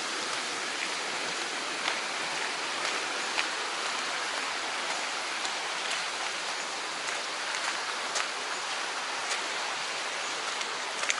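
Steady rush of a mountain stream's running water, with scattered light ticks over it.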